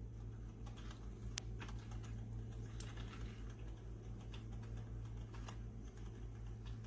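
Drip coffee maker brewing: a steady low hum with scattered small ticks and pops, one sharper click about a second and a half in.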